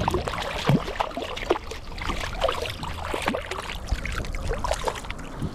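Water splashing and dripping with a busy run of irregular small knocks and clatters on a kayak, as a freshly caught porgy is handled aboard.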